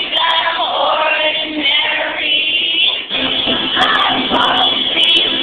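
Post-hardcore band playing live, with singing over electric guitars, recorded from the crowd on a camera with a narrow, muffled sound.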